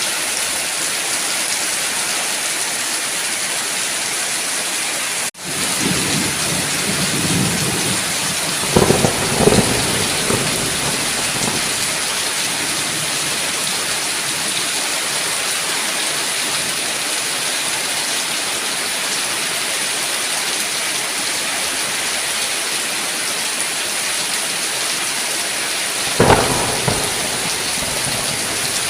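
Steady heavy rain with thunder: a low rumble builds about six seconds in and breaks into loud cracks around nine seconds, and a second short clap comes near the end. The sound briefly cuts out just before the first rumble.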